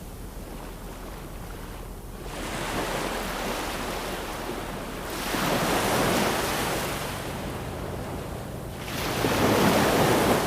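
Ocean waves washing onto a shore, three swells of surf rising and falling away: one about two seconds in, one in the middle, and the loudest near the end.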